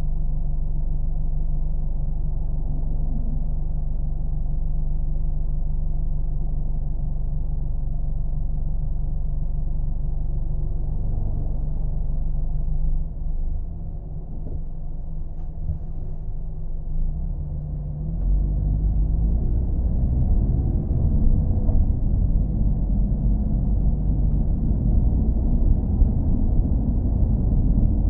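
Car engine with a steady low rumble. It dips slightly about halfway through, then turns louder and rougher for the last third.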